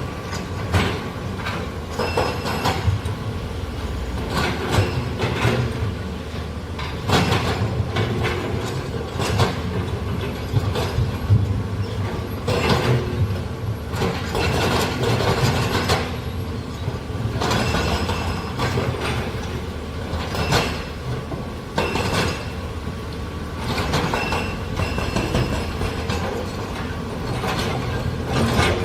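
Heavy earthmoving machinery working: a diesel engine runs steadily under many irregular metal clanks and knocks.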